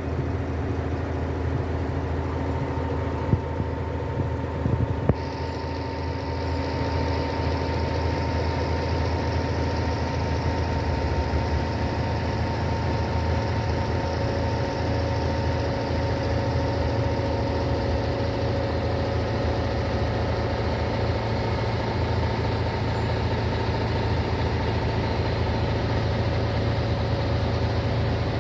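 Diesel engine of a Scania G-series truck-mounted concrete pump running steadily at idle, with a steady whine over its low hum. A few sharp clicks sound in the first five seconds, and a hiss joins about five seconds in.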